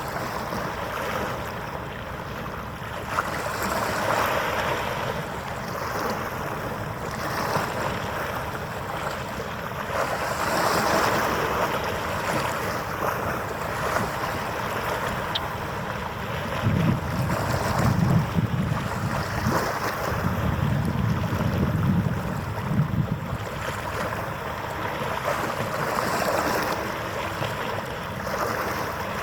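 Harbour waves washing and wind buffeting the microphone, swelling and easing every few seconds, with heavier low gusts about two-thirds of the way through.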